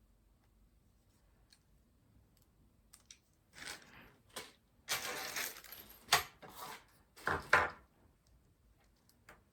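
PC case parts being handled: after a few quiet seconds, a stretch of rustling and scraping with several sharp clicks and knocks, the loudest two coming near the end.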